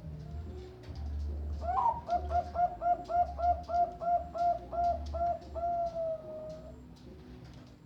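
Zebra dove (Bangkok perkutut) cooing: a quick, even string of about fifteen short notes, ending in one long drawn-out note that falls slightly.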